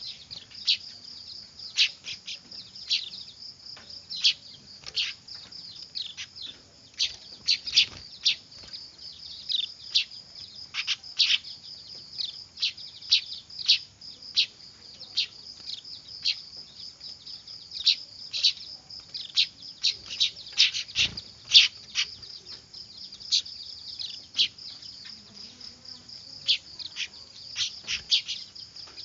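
Weaver (manyar) chicks calling noisily: a rapid, irregular stream of short, sharp, high chirps that drop in pitch, over a constant high-pitched buzz.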